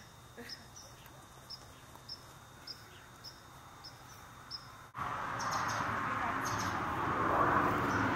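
A bird chirping a short, high call about twice a second over faint outdoor background. About five seconds in the sound cuts abruptly to a louder, steady rushing noise.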